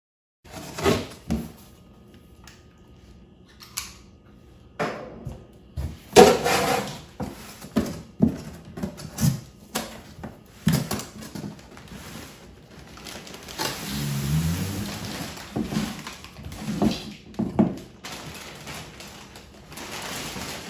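Handling noise from the boxed inflatable kayak being unpacked: irregular knocks, scrapes and rustling, with a longer stretch of rubbing about two-thirds of the way in.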